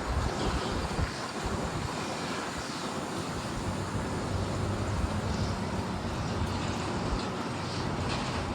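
Wind buffeting the microphone in uneven low gusts, with a steady low engine hum coming in about halfway through.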